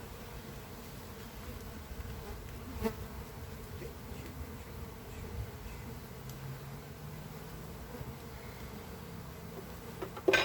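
Swarm of Russian honeybees buzzing steadily, a mass of wingbeats around the hive. A small click about three seconds in and a sharp, louder knock near the end.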